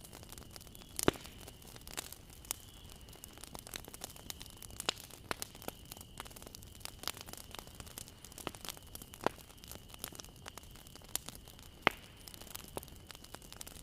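Bonfire crackling: irregular sharp pops and snaps from the burning wood over a low hiss, with two louder pops, one about a second in and one near the end. A faint steady high tone runs underneath.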